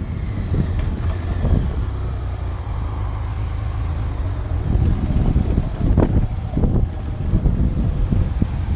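Motorcycle engine running on the move, with wind buffeting the microphone in gusts. A faint whine falls in pitch over the first few seconds.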